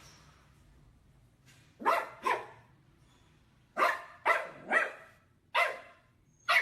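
A dog barking six times: a quick pair about two seconds in, then a run of four short barks.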